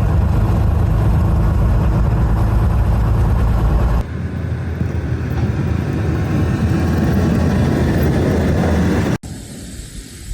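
Steady rumble of a motor vehicle running, in three stretches that change abruptly about four and nine seconds in.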